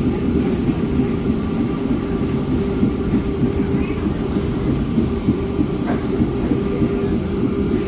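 Subway train running on the track: a steady, unbroken rumble of wheels and running gear with a steady hum through it.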